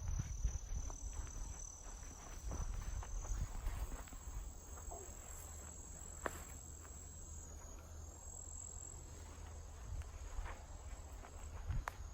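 Steady high-pitched chorus of crickets or katydids. Footsteps on the forest floor thud during the first few seconds and again near the end, and there are a couple of isolated sharp clicks.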